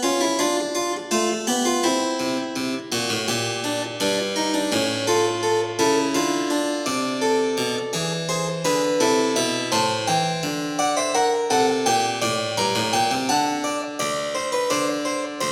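Background music: a harpsichord playing a brisk run of plucked notes.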